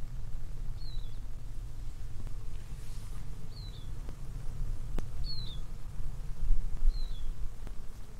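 A bird calling: a short, high chirp that falls in pitch, four times, about every second and a half to two seconds, over a steady low rumble.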